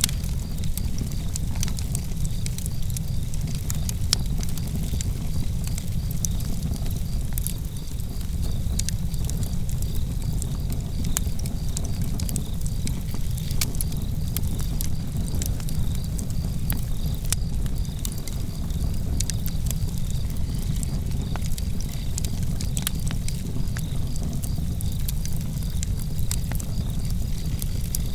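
Outdoor campfire burning, with a steady low rumble and frequent sharp crackles and pops from the flames and coals, and crickets chirping steadily behind it.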